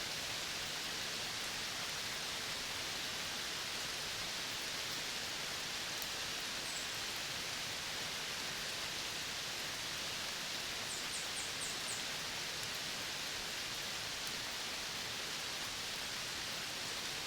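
Steady, even hiss of midday tropical forest ambience, with a few faint short high chirps: one about six seconds in and a quick run of four about eleven seconds in.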